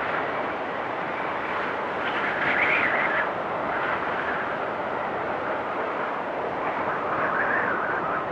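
Storm wind blowing steadily with a rushing noise, gusts swelling higher and louder about two and a half seconds in and again near the end.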